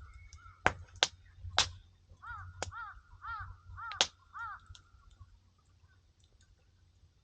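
Burning firewood crackling with a few sharp pops. A bird calls five times in quick succession in the middle, each call a short arched note.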